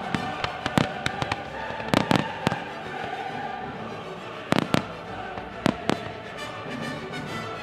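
Fireworks shells bursting in a series of sharp bangs, bunched around two seconds in and again near five seconds in, over music with held tones.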